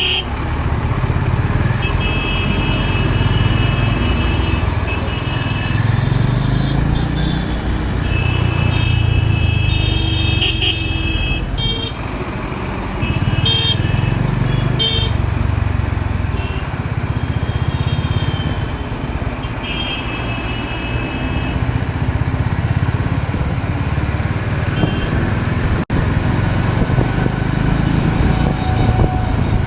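Honda CB350 RS's air-cooled single-cylinder engine running as the bike rides through traffic, with vehicle horns honking several times.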